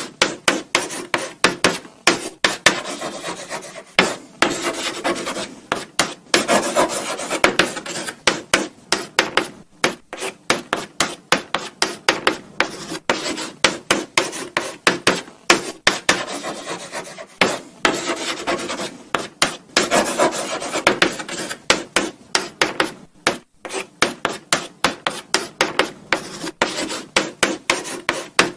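Chalk scratching on a blackboard in quick, irregular strokes, several a second, with short pauses between runs as if writing words.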